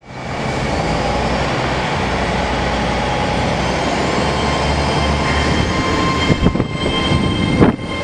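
Great Western Railway Hitachi Intercity Express Train moving along the platform, a steady rumble of running gear and rail noise with a faint whine rising slowly in pitch. A few sharp knocks come near the end.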